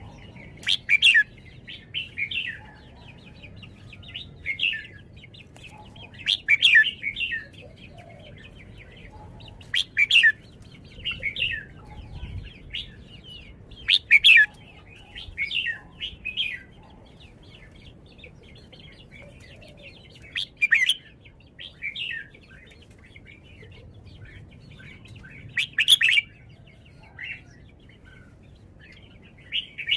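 Red-whiskered bulbul singing short, bright chattering phrases, one every few seconds.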